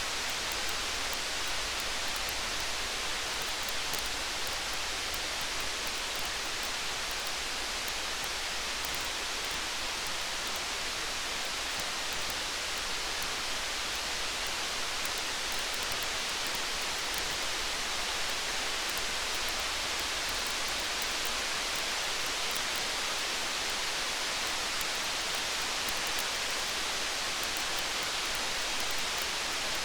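Steady hiss of rain, with many faint fine crackles from a campfire.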